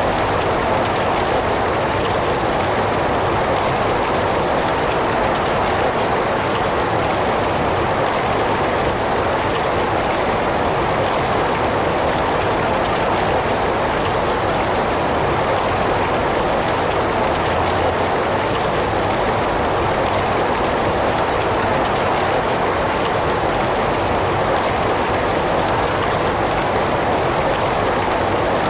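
Heavy rain falling in a steady, unbroken hiss with no thunder or other events.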